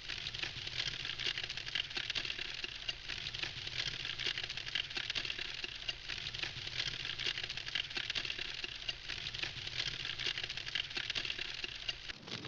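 Campfire crackling: a steady stream of small pops and snaps.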